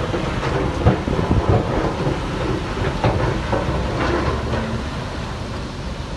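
Shantui DH17C3 crawler bulldozer's diesel engine running steadily under load, with irregular metallic clanks and knocks from its steel tracks and blade.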